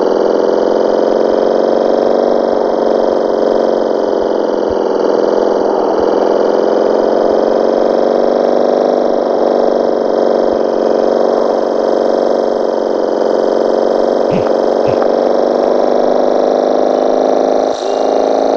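Motorcycle engine running at a steady, nearly constant pitch, a continuous even drone.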